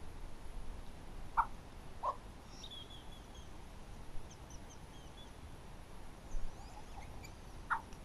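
Wild birds calling: thin, high chirps and twitters through the middle, with three short, lower calls, one about a second and a half in, one about two seconds in, and one near the end.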